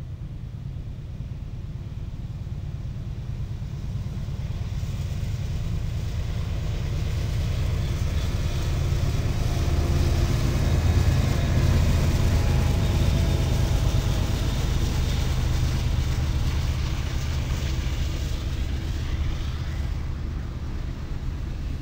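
CSX freight train passing behind a GE Evolution-series diesel locomotive. The engine's low rumble grows louder, peaks about halfway through as the locomotive goes by, then eases slightly as the autorack cars roll past with a steady rumble.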